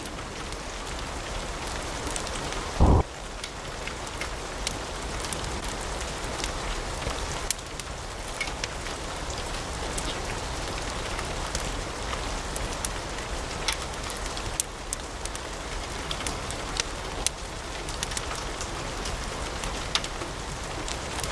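Wood fire burning in a fireplace: a steady soft hiss with frequent sharp crackles and snaps. About three seconds in, a brief loud low thump stands out above the crackling.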